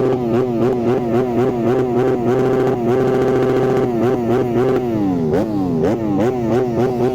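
Motorcycle engine revved in a string of quick throttle blips, the revs jumping up and dropping back again and again, with short stretches of steady running in between and one longer rise and fall about five seconds in.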